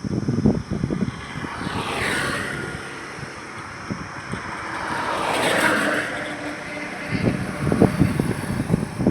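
Highway traffic: two vehicles pass by, one about two seconds in and a louder one about five and a half seconds in, each swelling and fading. Wind buffets the microphone at the start and again near the end.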